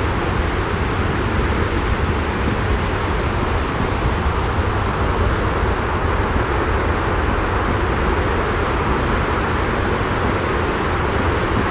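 Steady, unchanging white noise with a deep rumble underneath, from a continuous sleep-sound track.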